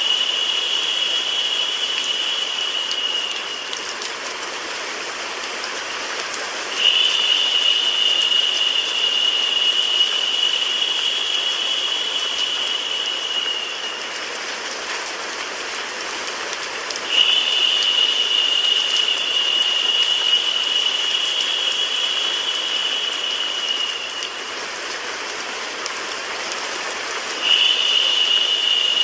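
Steady hiss of rain sound mixed with white noise. A higher, narrower hiss comes in on top for about seven seconds at a time with gaps of three or four seconds, making it louder while it lasts.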